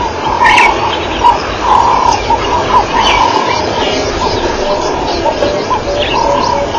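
Birds calling in the bush: many short repeated calls and chirps, with a run of evenly spaced lower notes near the end, over a steady hiss.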